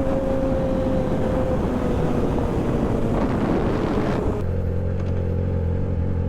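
2008 Yamaha R6 inline-four running through an SC Project muffler on a Black Widow exhaust while being ridden, its note easing slowly down with wind rush over it. About four seconds in the sound changes abruptly to a steady low engine hum without the wind.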